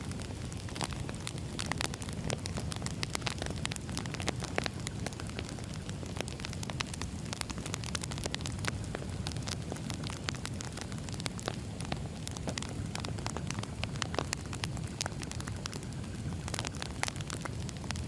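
Wood fire burning, with a steady low rumble and frequent irregular crackles and pops from the burning logs.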